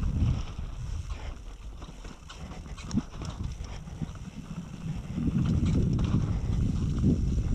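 Wind buffeting the microphone in gusts, strongest near the start and again from about five seconds in, over irregular knocks and rattles of a mountain bike riding over rough, rocky ground, with one sharp knock about three seconds in.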